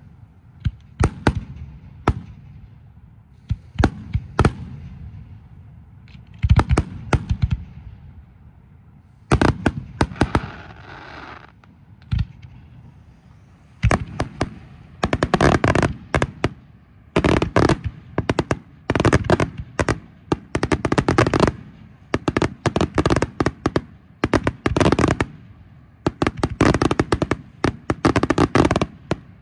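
Aerial firework shells bursting one after another in sharp booms and reports. They are scattered at first, then come in dense rapid clusters of bangs from about halfway through.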